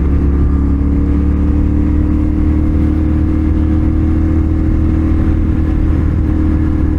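CFMoto 450SR motorcycle's parallel-twin engine running at a steady, nearly unchanging speed while riding, with wind and road noise.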